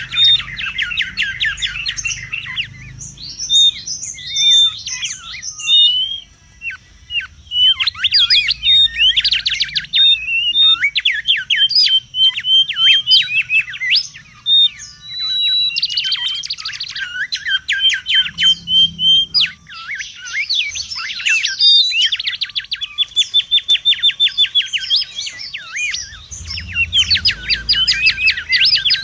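Mangrove whistler calling: phrase after phrase of rapid chattering trills and sharp whistled notes, with only short breaks.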